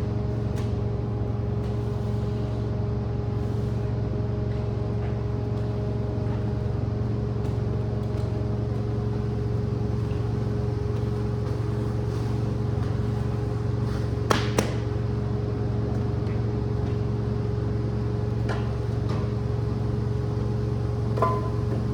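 Steady drone of a rug-cleaning machine's motor, a low hum with a held tone over it. A couple of sharp clicks about 14 seconds in.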